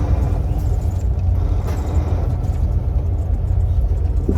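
Semi-truck's diesel engine running with a steady low rumble as the tractor moves slowly through a trailer yard.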